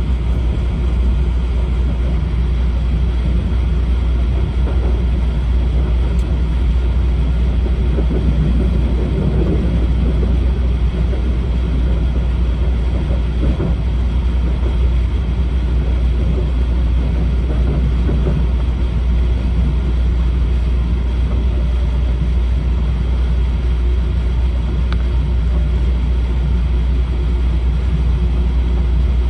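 Steady low rumble of an E4 series Shinkansen train running, heard from inside a passenger car.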